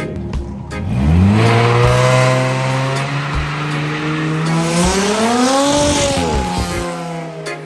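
Car engine revving: it rises about a second in and holds at a raised speed, then revs higher once more and drops back near the end.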